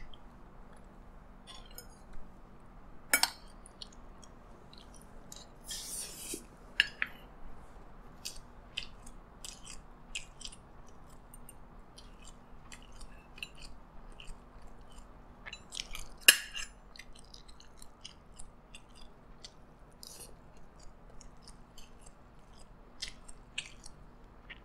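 A person chewing a mouthful of fried rice, broken by many short sharp clicks, the loudest about three seconds in and again about sixteen seconds in.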